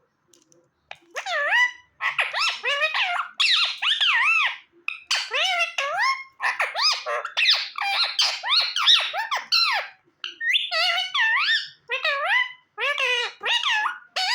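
Indian ringneck parakeet chattering in a rapid string of squeaky calls that warble up and down in pitch, starting about a second in and running almost without a break.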